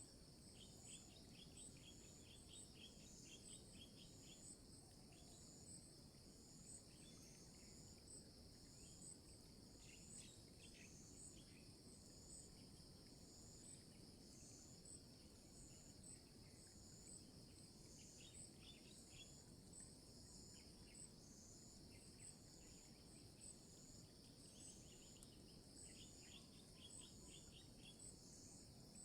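Faint forest insects: a steady high buzzing with a regular pulsing call over it, and now and then short bursts of quick chirps lower down.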